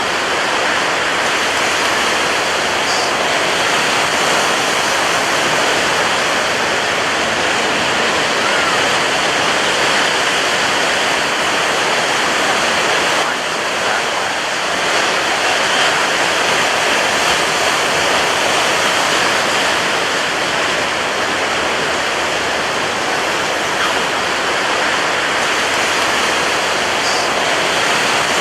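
Ocean surf breaking on a beach, a loud, steady rushing wash of waves with no single crash standing out.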